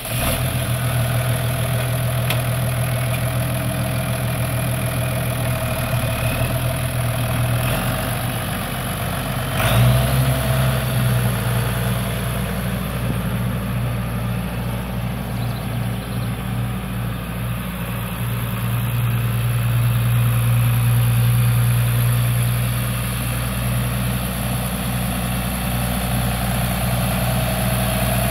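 John Deere 6603 tractor's diesel engine running steadily at idle. Its note and loudness step up about ten seconds in, then it settles again.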